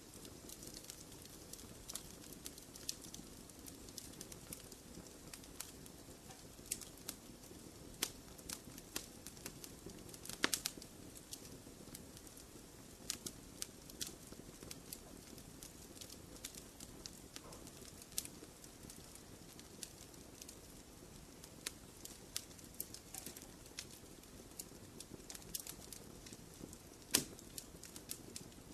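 Wood fire burning in a fireplace: a soft steady low rumble with irregular crackles and pops, a couple of sharper pops standing out.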